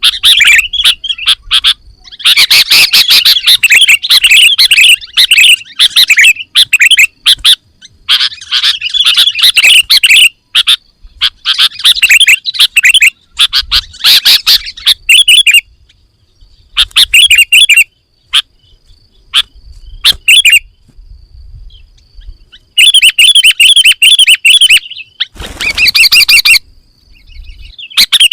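Sooty-headed bulbul (kutilang) singing loudly in bursts of rapid, varied chirping phrases with short pauses between them.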